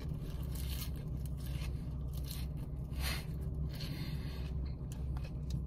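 Chewing a mouthful of raw arugula leaves: irregular soft crunching, with one louder crunch about three seconds in, over a low steady hum.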